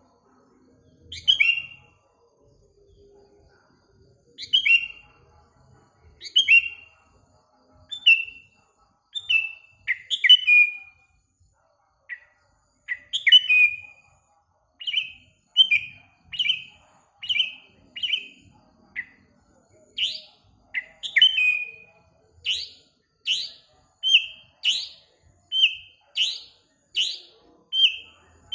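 Sooty-headed bulbul (kutilang) calling in a series of short chirps that dip in pitch. They come about one every one to two seconds at first, then quicken to roughly one and a half a second in the second half.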